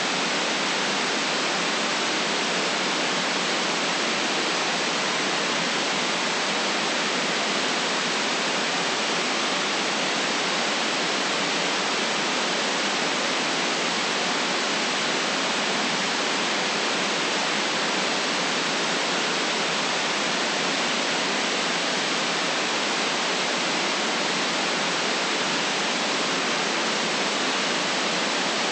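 Steady, unchanging white noise: an even hiss with little deep rumble, running without any change in level or pattern.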